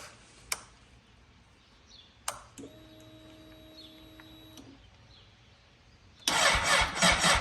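A few clicks of the switches, then the fuel pump of a 2003 Honda CBR600RR hums steadily for about two seconds as it primes. About a second before the end, the starter begins cranking the inline-four engine with a loud, even, pulsing rhythm, powered from a jump box on a dead battery.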